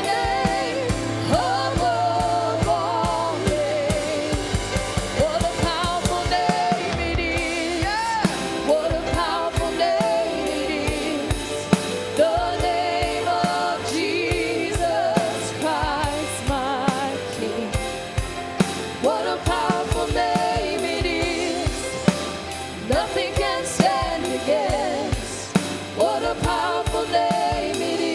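Live worship band with lead vocalist and singers performing a contemporary praise song, with sustained sung lines over a steady drum-kit beat and bass.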